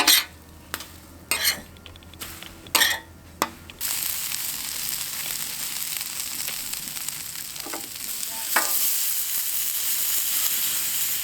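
Food sizzling in a frying pan, a steady hiss that starts suddenly about four seconds in. It is preceded by a few sharp clicks and knocks.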